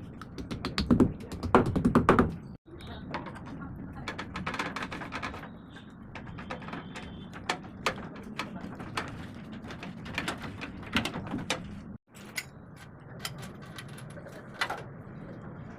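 Clicks, knocks and clatter of hand tools and metal fittings being handled during plumbing installation work. The clatter is densest in the first two seconds, then comes as scattered single clicks over a low hum.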